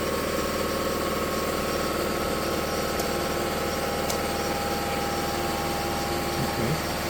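A motor running steadily with a continuous, even hum, and two faint clicks about three and four seconds in.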